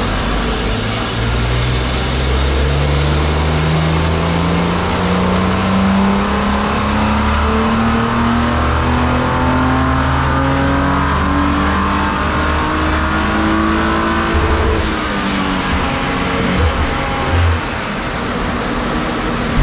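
2019 Audi RS5's 2.9-litre twin-turbo V6 making a wide-open-throttle pull under load on a hub dyno, in stock tune, its pitch climbing steadily for about fifteen seconds. It then lets off with a short rush of air, and the revs wind back down.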